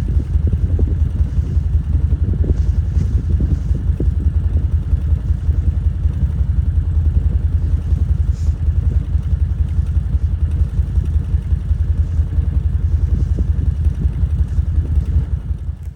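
Side-by-side utility ATV engine running steadily with a low, rumbling drone, which cuts off abruptly at the end.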